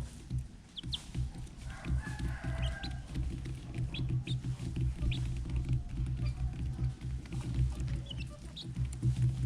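Red junglefowl clucking and calling, with short high chirps scattered through, over a steady pulsing low hum.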